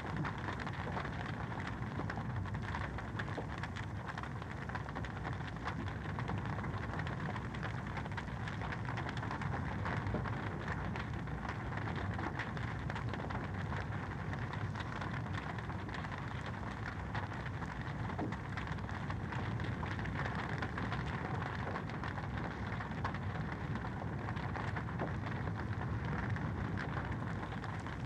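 Wood fire in a fireplace crackling steadily, a dense run of small pops and snaps over a soft hiss.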